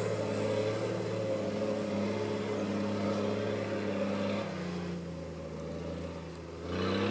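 Off-road vehicle's engine running at steady revs, dropping to lower revs about four and a half seconds in, then revving up briefly near the end.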